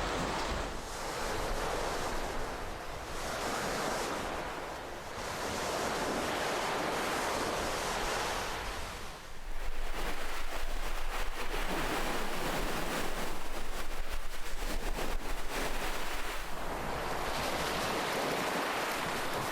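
Ocean waves breaking and washing on the shore in repeated swells. A bigger wave comes in about halfway through, louder, with a dense hiss of wash that lasts several seconds before easing.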